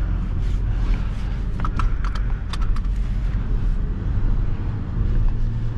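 Vehicle running down the road, heard from inside the cab: a steady low engine and road rumble with scattered small clicks and rattles.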